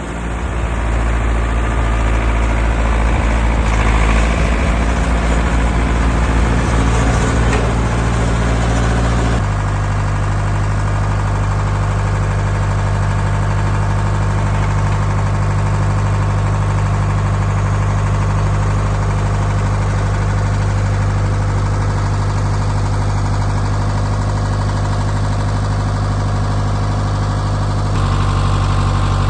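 Tractor engine running steadily at working revs, its tone shifting abruptly about nine seconds in and again near the end.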